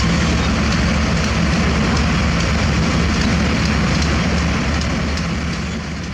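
Diesel engine of heavy earthmoving machinery running steadily with a low drone, fading out near the end.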